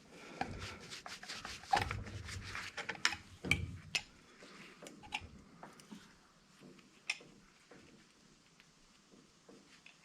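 Metal parts and hand tools clattering and clicking as an old electric angle grinder is handled for scrapping: a busy run of knocks and clinks for about four seconds, then scattered single clicks.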